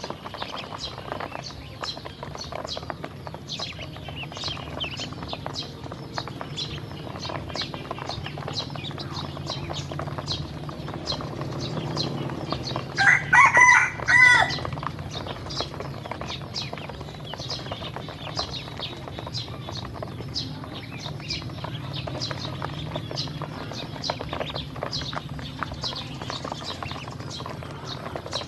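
A steady stream of short, high peeps from a flock of baby ducklings feeding. Once, about halfway through, a rooster crows loudly over them.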